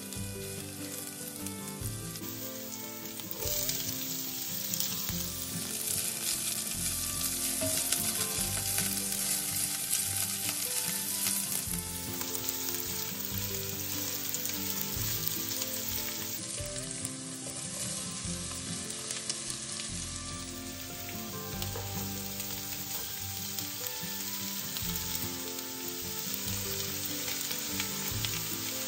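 Garlic and onion sizzling in hot oil in an enameled cast-iron pot, stirred with a silicone spatula. The sizzle swells louder about three and a half seconds in and stays steady after that.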